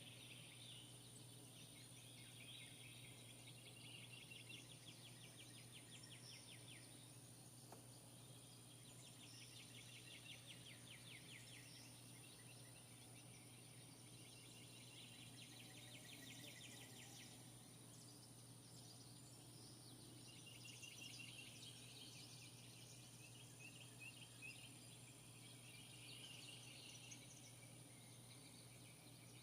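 Faint outdoor ambience with a creature's fast pulsed trills, coming in bouts of two to five seconds with short gaps between, over a steady low hum and a thin steady high tone.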